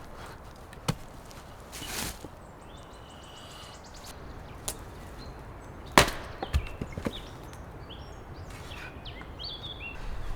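A few sharp wooden knocks, the loudest about six seconds in with a short cluster of smaller knocks after it.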